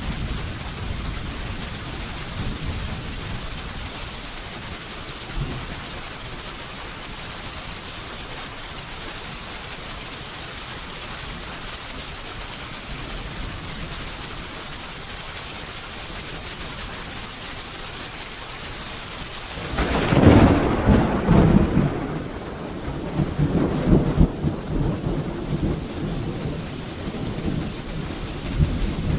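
Steady rain with low thunder rumbling. About two-thirds of the way through, a loud thunderclap breaks suddenly and rolls on for several seconds, swelling again before it fades.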